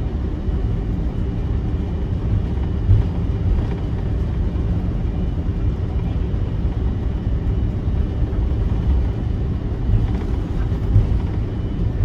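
Cabin noise of an Airbus A330-300 taxiing: a steady low rumble from the Rolls-Royce Trent 700 engines at taxi power and the rolling gear, with a few brief thumps.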